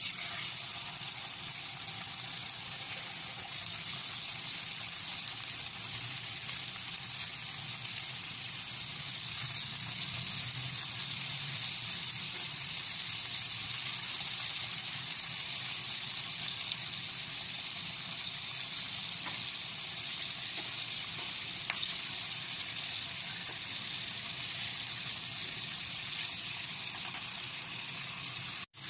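Pork chops sizzling as they fry in hot cooking oil in a wok: a steady, even hiss, broken by a brief dropout near the end.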